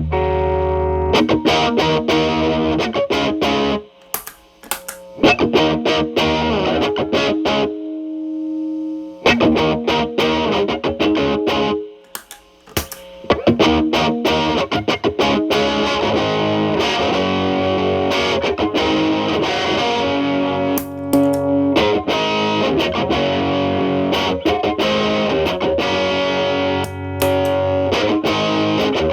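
Telecaster played through an MI Audio Crunch Box distortion pedal, gain at 10, into the clean channel of a Marshall Valvestate amp. It gives distorted electric guitar phrases with held notes and chords, with short gaps near 4 and 12 seconds in.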